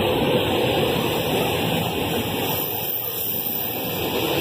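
SEPTA commuter train cars rolling past at low speed, a steady rumble of steel wheels on the rails.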